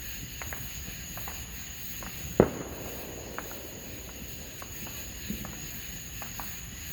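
A single sharp firework bang about two and a half seconds in, with a short echoing tail, over steady high-pitched insect chirring and a few faint clicks.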